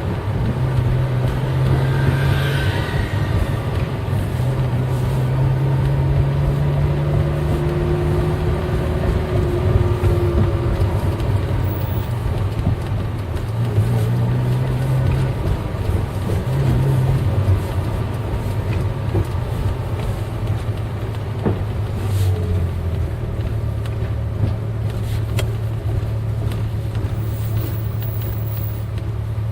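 Car's V8 engine running while driving, a steady low hum whose pitch shifts slightly up and down now and then.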